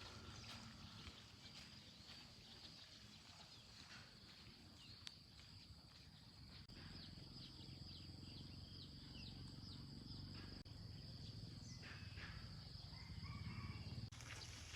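Faint outdoor ambience: scattered short bird chirps over a steady high-pitched drone and a low rumble.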